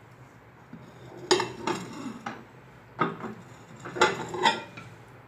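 Clinks and knocks of a microwave-safe bowl and its lid being handled: several sharp strikes in an irregular series, with brief ringing.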